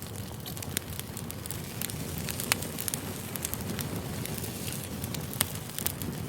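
Crackling campfire: a steady low rumble of burning wood with frequent sharp pops, two of them louder at about two and a half and five and a half seconds in.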